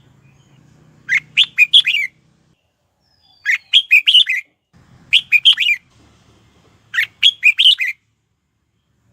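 Red-whiskered bulbul singing four short phrases of quick chirping notes, one about every two seconds.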